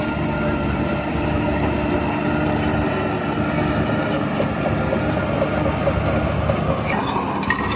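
Heavy diesel earthmoving engine running steadily at a low, even speed, with a few short metallic clicks near the end.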